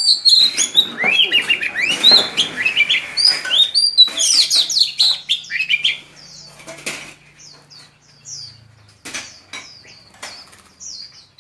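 Small caged white-eyes twittering in quick, high, short chirps, densest in the first five seconds and thinning out after, mixed with wing flutters and light clicks.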